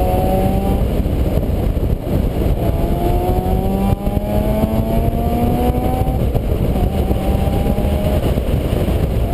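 Vehicle engine climbing in pitch as it accelerates, from about two and a half seconds to six seconds, then dropping and climbing again briefly, under a loud, steady low rumble.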